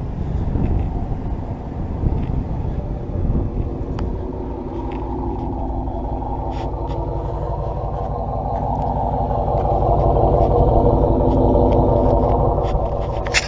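A Dodge Charger Pursuit's 5.7-litre HEMI V8 running through an SLP Loudmouth exhaust: a steady, deep drone that grows louder for a few seconds past the middle. There is a sharp click near the end.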